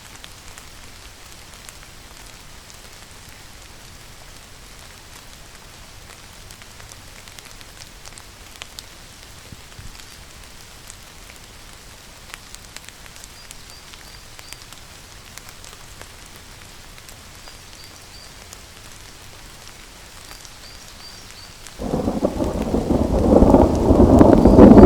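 Steady rainfall with scattered drop ticks, then, about three seconds before the end, a loud thunderclap breaks in suddenly and goes on rumbling, growing louder.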